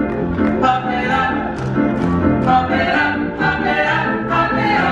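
Live music with several voices singing together over instrumental accompaniment.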